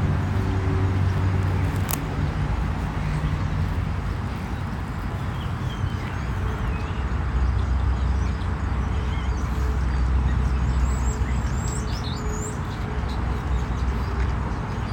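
Birds chirping, several short calls in the second half, over a steady low rumble.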